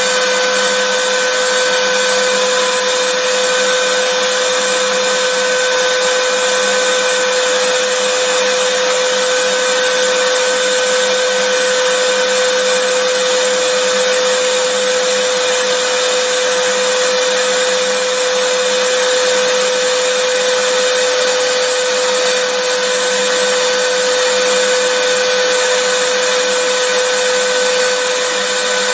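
Vacuum cleaner running steadily, its motor whine and airflow hiss holding at one constant pitch and level throughout.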